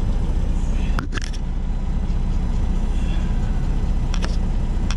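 A heavy truck's diesel engine idling with a steady low rumble. A few short sharp clicks or knocks come about a second in and again near the end.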